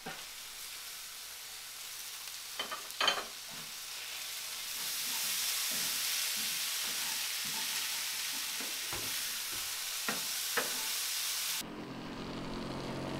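Shredded food frying in a black pan, stirred with a wooden spatula: a steady sizzle that grows louder about a third of the way in, with a few sharp clicks of the spatula against the pan. Near the end the sizzle cuts off and soft music begins.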